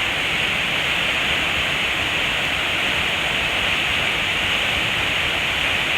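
Steady rush of water from a waterfall, an unbroken hiss-like roar of falling water.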